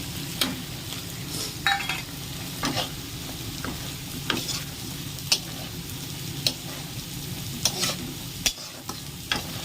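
Small fish sizzling as they fry in oil in a kadhai, with a spatula scraping and stirring them in about a dozen irregular strokes.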